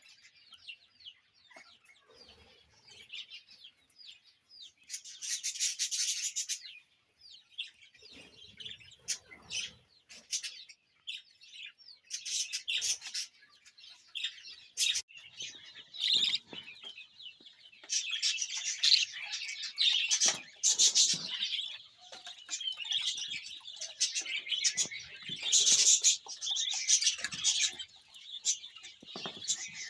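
Many lovebirds chirping and chattering, sparse at first and then a dense, continuous chatter through the second half, with some rustling and knocks in between.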